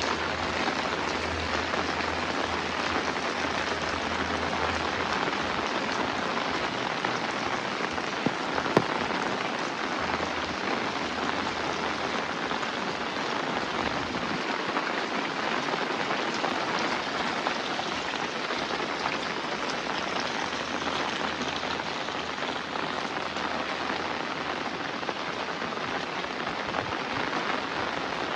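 Heavy rain falling steadily, a dense even patter with a few sharper drops standing out.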